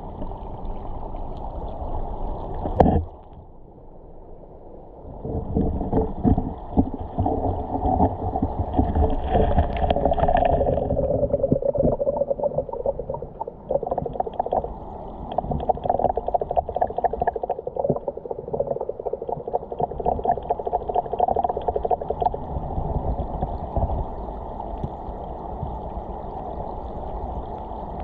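River water gurgling and rumbling with a dense crackle, heard muffled through a camera held underwater in a shallow stream. There is a sharp knock about three seconds in, a quieter lull, then the crackling churn picks up again.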